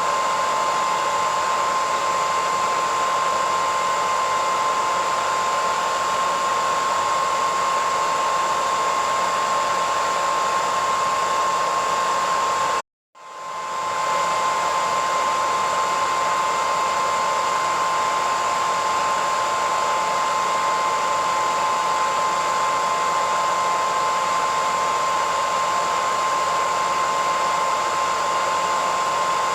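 Hair dryer running steadily: a rush of blown air with a steady whine. About 13 seconds in, the sound cuts out completely for about half a second and then fades back up.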